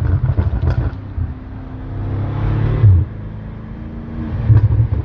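BMW M5 F90's twin-turbo V8 being revved through its exhaust. It crackles and pops in the first second, rises to a rev that cuts off sharply about three seconds in, then blips again with more popping near the end.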